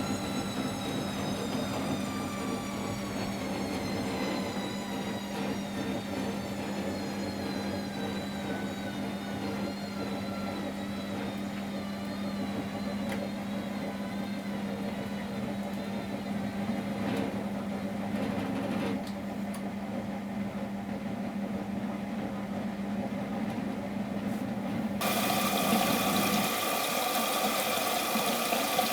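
Miele Professional WS 5426 washing machine with its drum motor whine falling slowly in pitch as the drum winds down, over a steady low hum. About 25 seconds in, water suddenly starts rushing in through the inlet valve, and the hum stops shortly after.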